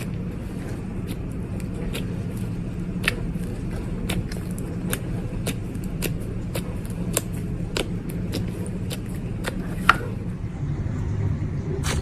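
Slime being pressed and stretched, giving irregular sharp clicks and pops over a steady low rumble.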